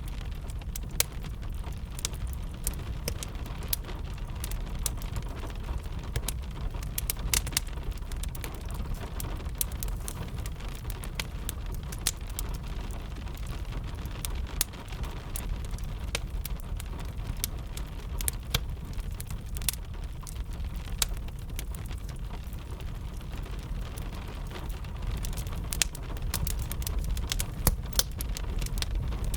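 Crackling fire with gentle rain: frequent sharp crackles and pops scattered over a steady low rumble and soft rain hiss.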